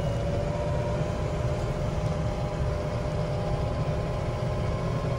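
Engine running steadily: a low rumble with a steady hum over it.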